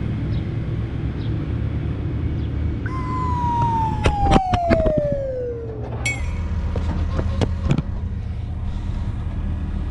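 Steady low rumble of a truck driving. About three seconds in, a high whine slides steadily down in pitch for about three seconds. Several sharp clicks or rattles come around four to five seconds in.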